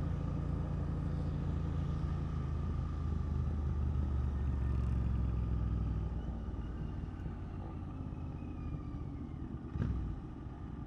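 Motorcycle engine running steadily at low revs as the bike pulls in, dying away about six seconds in to a quieter rumble, with a single sharp knock near the end.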